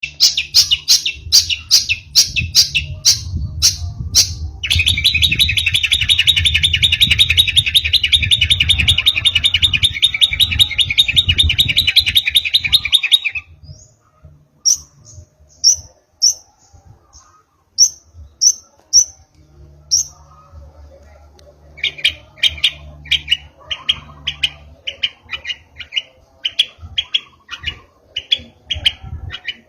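Young long-tailed shrike singing a varied song. It opens with sharp repeated notes, then holds a long rapid trill for about eight seconds, gives a few thin high whistles, and ends with a quick run of repeated chips.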